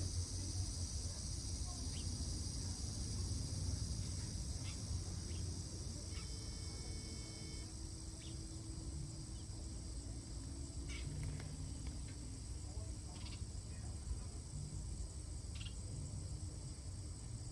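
Steady high-pitched insect chorus, crickets trilling, with scattered short chirps and a low rumble underneath.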